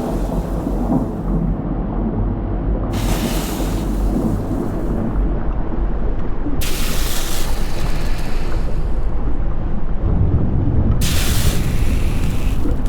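Volcanic eruption rumbling, a continuous deep roar with stretches of hissing that cut in and out abruptly three times.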